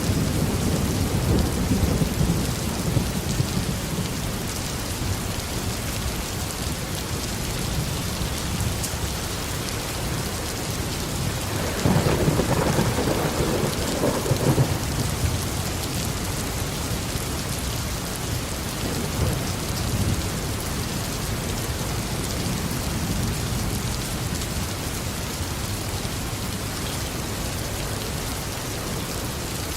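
Steady tropical rain falling, with thunder rumbling low near the start and a louder roll of thunder about twelve seconds in that lasts two or three seconds.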